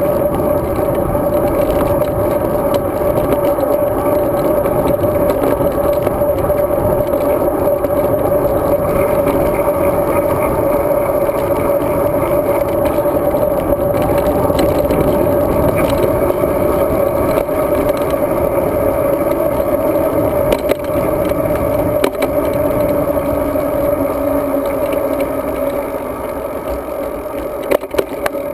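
Steady rush of wind and tyre noise picked up by a GoPro Hero 2 riding on a road bike, with a constant hum running through it; it eases off near the end.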